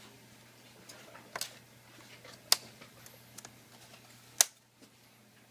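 Sharp clicks and snaps as a prying tool works a glued, clipped part loose on a Samsung Series 7 ultrabook: three loud clicks about a second apart, with fainter ticks between.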